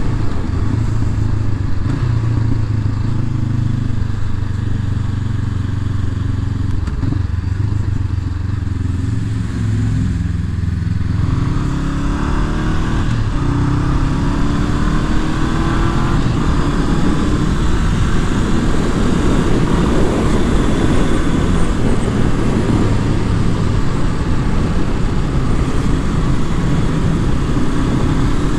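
Honda CB500F's parallel-twin engine running at steady low revs, then revving up several times in a row from about eleven seconds in as the bike accelerates through the gears. A rushing noise grows as speed builds.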